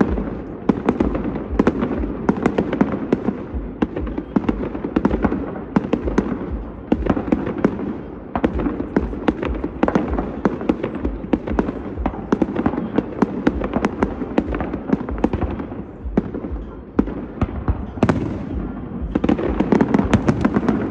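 Fireworks going off in a dense, continuous barrage: rapid sharp cracks and bangs overlapping one another, with a brief lull near the end before another burst.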